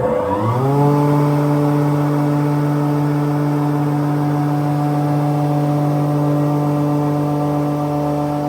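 GOMAD DCFDA spindle moulder's electric motor and spindle spinning up, a whine rising in pitch over the first second, then running steadily at full speed with a steady hum.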